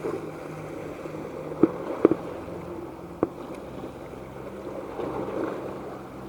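Fireworks bursting: a few short sharp bangs, about one and a half seconds in, twice around two seconds and once just after three seconds, over a steady background hum and outdoor crowd noise.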